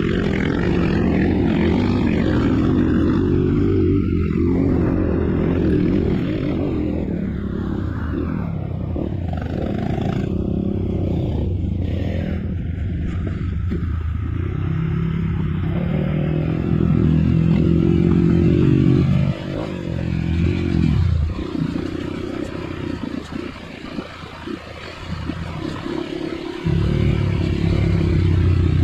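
Trail motorcycle engine running under throttle. About two-thirds of the way in it is backed off to a low, uneven running for several seconds, then opened up again near the end.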